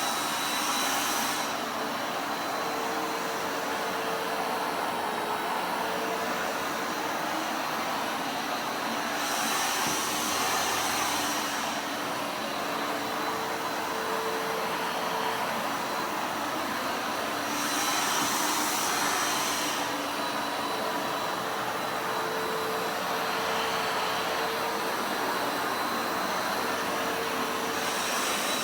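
Vacuum cleaner running steadily, its hiss swelling for a second or two about every eight or nine seconds.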